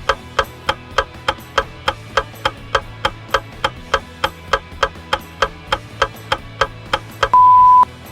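Quiz countdown timer sound effect ticking about four times a second over a low steady drone. Near the end it stops with one loud, steady half-second beep marking that time is up.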